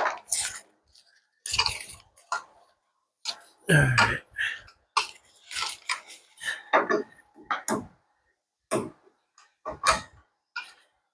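Irregular clinks and clatter of metal hand tools, wrenches and sockets, knocking and scraping against each other and against metal parts.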